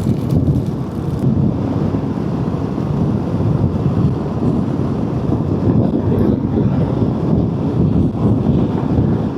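Wind buffeting a motorcyclist's microphone at road speed: a loud, steady low rumble of rushing air.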